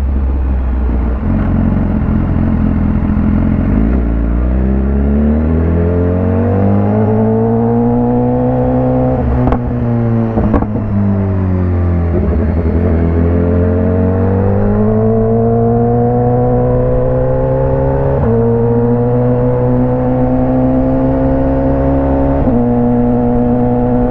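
BMW S1000RR inline-four engine under way, revs climbing and falling through the gears: rising for several seconds, dropping off around the ten-second mark, rising again and then holding fairly steady with small steps. The bike runs a loud exhaust.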